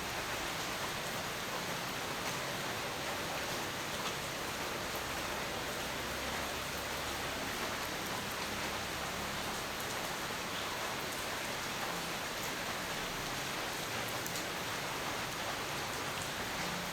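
Steady rain falling, an even hiss with scattered drop ticks; no thunder.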